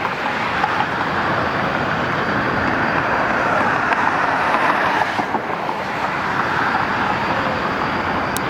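Steady outdoor noise like road traffic, an even roar with no distinct events, and a faint thin high whine held through most of it.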